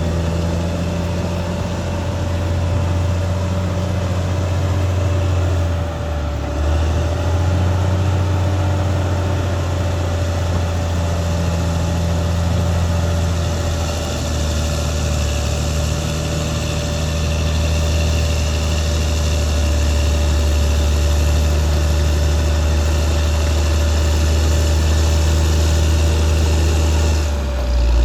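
Caterpillar D6R XL bulldozer's diesel engine running steadily while the machine works, with a constant higher tone over the low engine hum. The sound dips briefly about six seconds in and again near the end.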